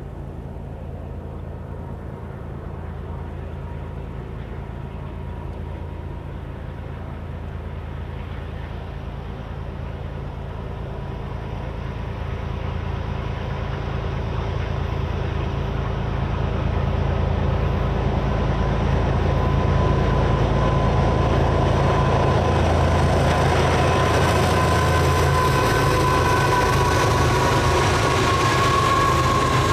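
Union Pacific diesel-hauled intermodal freight train approaching, its locomotive engines growing steadily louder over about twenty seconds. A thin, steady high-pitched whine strengthens near the end as it draws close.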